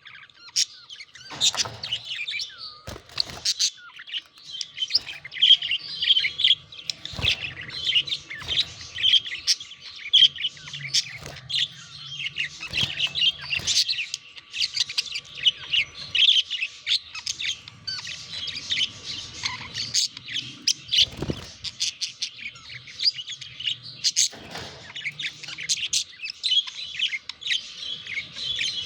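Budgerigars chattering and warbling continuously in quick chirps, with a few sharp knocks scattered through.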